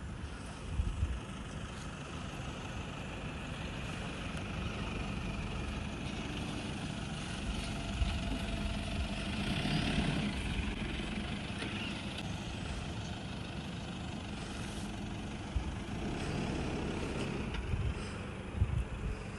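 A vehicle engine running steadily, swelling for a moment about ten seconds in. Short low thumps of wind on the microphone come near the start and near the end.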